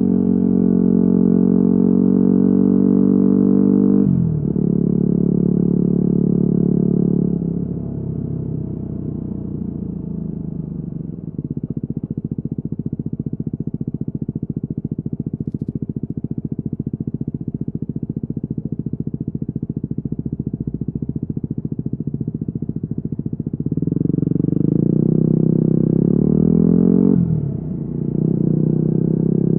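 Yamaha WR250R single-cylinder engine through an FMF Q4 exhaust, running under throttle and shifting up about four seconds in. It then eases off and settles to a lower, steady putter for about twelve seconds, before accelerating again with another sudden upshift near the end.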